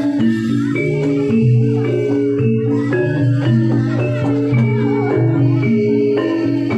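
Javanese gamelan music: struck metallophones ring out a dense, steady run of notes.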